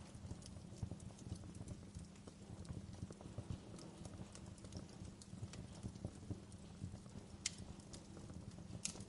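Wood fire crackling in a fireplace: a steady run of small crackles over a low rumble, with two sharper pops near the end.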